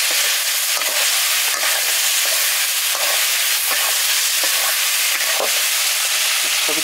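Chicken pieces and freshly added chopped onion sizzling in oil in an iron wok, stirred with a wooden spatula that scrapes the pan about once a second.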